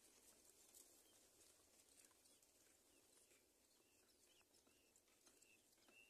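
Near silence with faint, short bird chirps: a few brief arched high notes that come more often in the second half.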